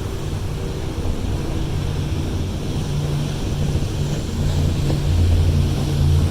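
Tour boat's engine running with a steady low drone that grows a little louder toward the end.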